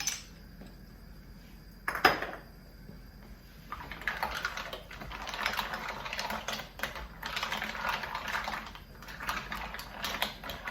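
A knock about two seconds in, then several seconds of dense, fast crackling that swells and fades: a pot of mussels in tomato stew sizzling and bubbling over raised heat.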